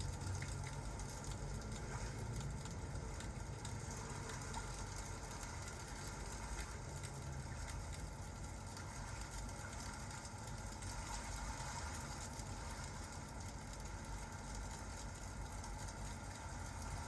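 Crackling fireplace mixed with rain: a steady low rumble and hiss, with fine crackles throughout.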